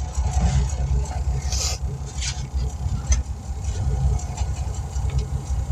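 An engine running steadily with a low rumble, with light clicks and knocks from tire-mounting work over it.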